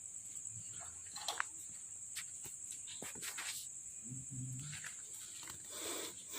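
A steady, high-pitched chorus of night insects, with several short clicks and a brief handling noise near the end.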